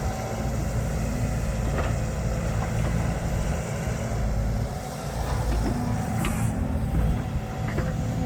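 Heavy diesel machinery running steadily with a deep drone, with a couple of short knocks about 2 and 6 seconds in.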